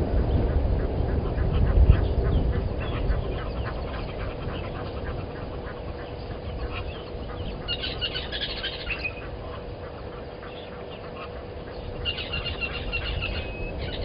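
Wild bird calls: a short burst of chattering calls about eight seconds in and a thin whistle held for about a second near the end, over rapid faint ticking and a low rumble that dies away.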